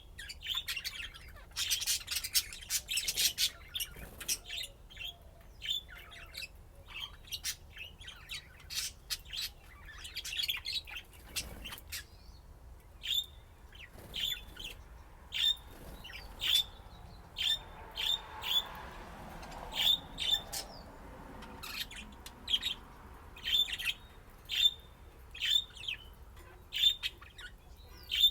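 Pet budgerigars chirping, with a dense burst of chatter in the first few seconds, then short sharp calls repeated about once a second.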